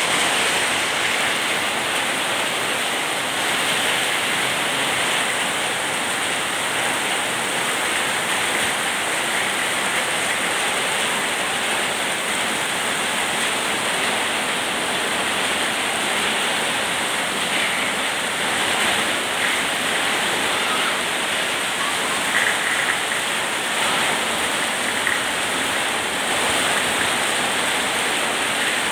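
Heavy rain pouring down onto a flooded street, a dense, steady hiss that does not let up.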